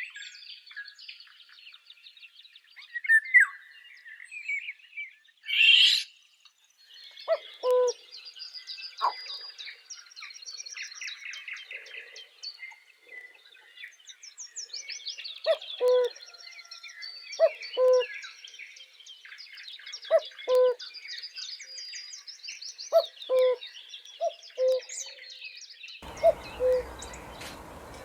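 A chorus of birds: many small birds chirping and trilling high, with a short low hooting call repeated every couple of seconds from about seven seconds in.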